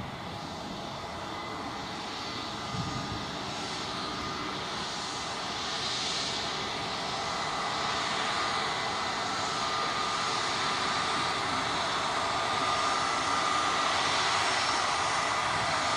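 Airbus A320neo's CFM LEAP-1A turbofans running at taxi power, a steady whine with a high hiss that slowly grows louder as the jet draws nearer.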